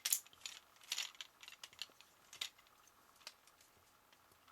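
Plastic parts of a Transformers Sandstorm action figure clicking and knocking as they are folded and clipped into place by hand: a run of short, sharp clicks in the first couple of seconds, then a few more spaced out.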